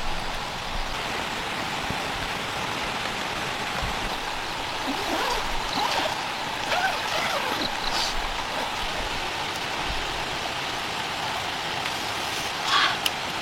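Heavy rain falling steadily, a dense even hiss of water, with a few faint wavering tones about halfway through and a brief louder patch near the end.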